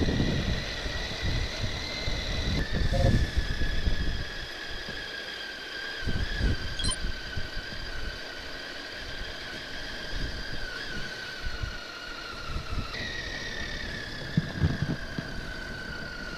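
Motorcycle engine running at a steady road speed, heard from the rider's own bike with wind rumble on the microphone. Its note drifts slowly lower, drops a little about three seconds in and jumps back up near the end.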